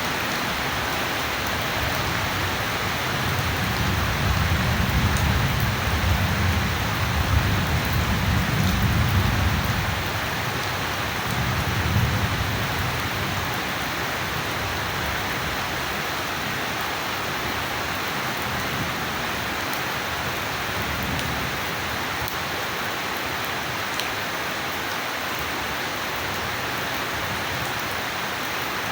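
Steady rain falling, with a low rumble of thunder rolling from about three seconds in to about ten seconds and a shorter roll near twelve seconds.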